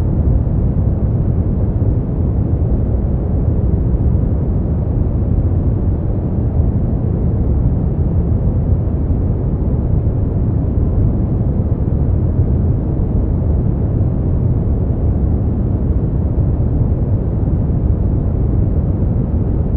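Steady, unchanging sleep-aid noise, deep and muffled, with its weight in the bass and nothing in the treble.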